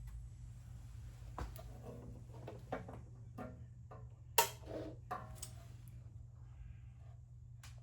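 Tiny strong magnets being handled and snapped into place on a lathe bed: a series of sharp clicks at uneven intervals, the loudest about four and a half seconds in, over a low steady hum.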